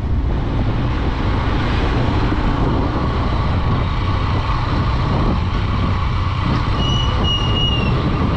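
Honda Dream 110 motorcycle riding along, its small single-cylinder engine running steadily under a constant rush of wind noise on the microphone. A short high-pitched beep sounds near the end.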